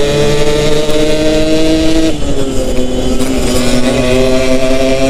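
Yamaha RX-King 135 cc two-stroke single-cylinder engine running under way, its pitch climbing steadily under throttle. The pitch drops suddenly about two seconds in, then climbs again.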